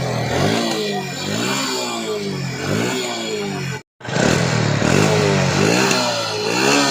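TVS Star City Plus motorcycle's single-cylinder engine revved again and again through its repaired silencer, pitch rising and falling with each throttle blip; the silencer had burst and has been patched by gas welding. The sound cuts out for a moment partway through.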